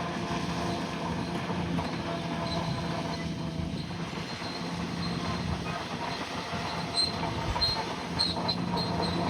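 Bulldozer working: its diesel engine runs steadily under continuous mechanical clatter. Short high metallic squeaks come in the last couple of seconds.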